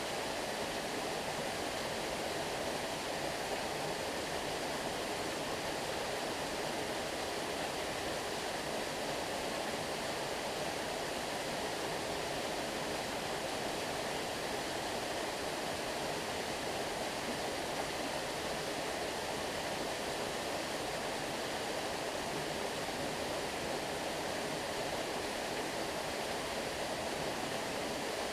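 Stream water flowing and rushing steadily, an even continuous noise with no breaks.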